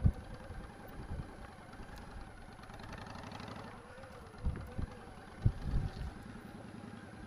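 Motorcycle engine running steadily at low speed during a slow practice manoeuvre. A few short low thumps of wind or handling on the microphone come about a second in and again between about four and a half and six seconds.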